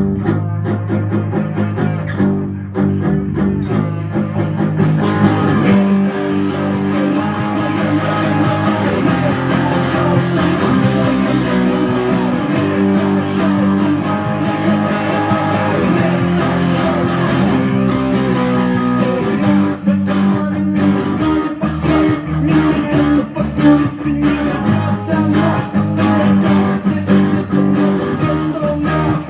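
Guitar playing a song instrumentally: plucked notes and chords over a low bass line. The sound grows fuller and brighter about five seconds in.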